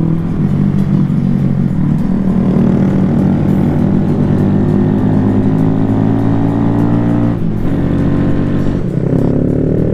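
Honda Grom motorcycle engine pulling under acceleration, its pitch climbing steadily. The pitch drops suddenly about seven seconds in as it shifts up a gear, then climbs again near the end.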